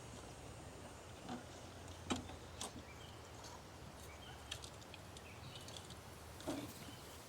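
Quiet forest ambience with faint short bird chirps, broken by five soft knocks and clicks spread through it.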